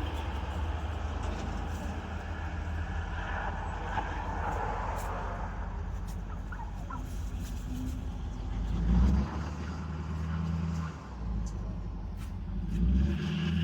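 A motor vehicle engine running: a steady low hum whose pitch steps up and down a few times, swelling louder about two-thirds of the way through and again near the end.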